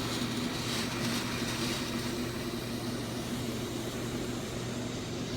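High-pressure water jets from a touchless car wash's moving spray arm hitting the car, heard from inside the cabin as a steady hiss over a constant low hum. The hiss is strongest in the first couple of seconds.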